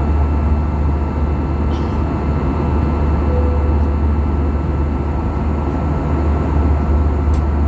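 Steady drone inside the cabin of an Airbus A320-214, from its CFM56 engines and the airflow, with a deep low hum underneath and two faint ticks.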